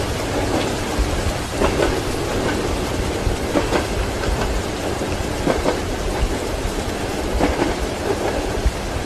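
Train wheels clacking over rail joints, a double clack about every two seconds, over a steady low rumble and the hiss of rain.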